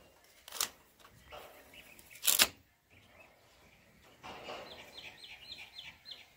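A bird calls near the end in a quick run of about six short, falling chirps. Earlier come two sharp taps or crackles, the louder one about two and a half seconds in.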